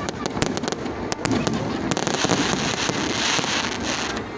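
Fireworks going off: a quick run of sharp pops and cracks, turning about two seconds in into a dense crackling hiss.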